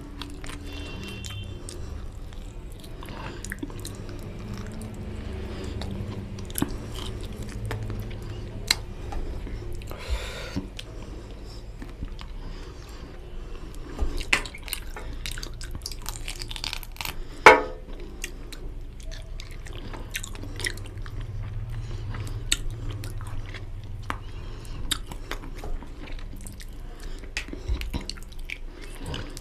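Close-miked chewing and wet mouth sounds of a man eating fatty mutton curry and rice by hand: soft smacking and many small clicks. A little past halfway there is one brief, louder buzzing sound.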